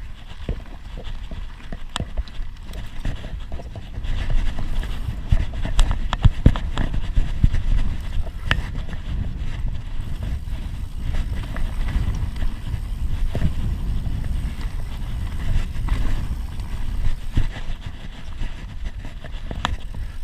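Bird Aeris AM9 mountain bike being ridden over rough ground: a steady low rumble with frequent sharp clicks and knocks from the bike jolting, heaviest from about four seconds in.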